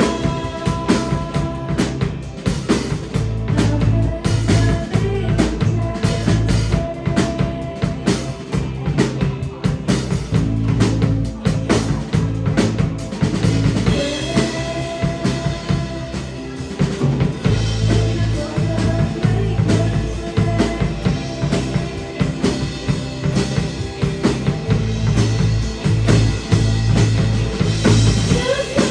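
Live rock band playing a song, the drum kit prominent with kick drum, snare and rimshots driving a steady beat.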